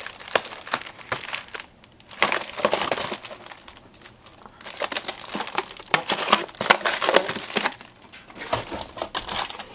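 Plastic packaging crinkling and crackling as it is handled, with small sharp clicks, in irregular clusters and a short lull about four seconds in.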